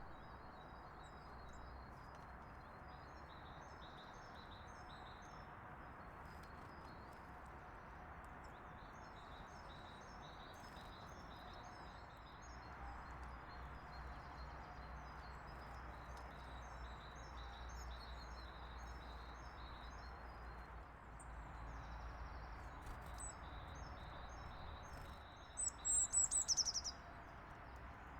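Small songbirds chirping over and over with short high notes, over a steady low background noise. Near the end one bird gives a much louder call close by, a quick run of high notes lasting about a second.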